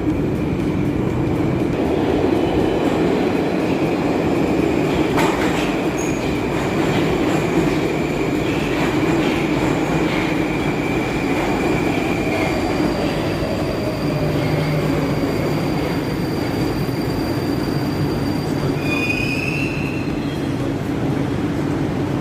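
Metro train running, a steady rumble with high whining tones held over it. About halfway through, a lower tone glides slowly down, and near the end a short high squeal rises.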